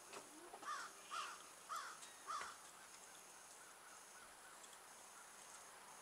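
A bird calling: four arching notes about half a second apart in the first two and a half seconds, then a few fainter ones.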